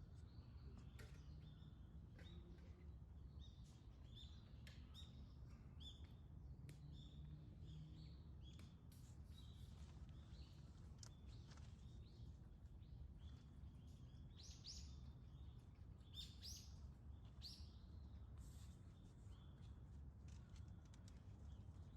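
Faint outdoor dawn ambience: small birds giving short chirps every second or so, a few louder ones near the end, over a steady low hum.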